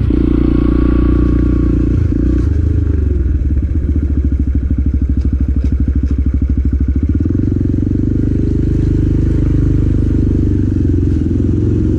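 Motorcycle engine running as it is ridden, heard through a helmet-mounted mic; for a few seconds in the middle it chugs in an even, rapid beat at low revs, then runs smoother again.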